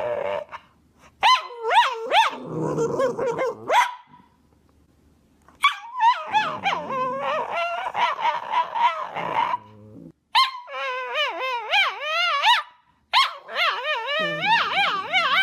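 A dog making whining, warbling vocalizations whose pitch swoops up and down, in four bouts with short pauses between them.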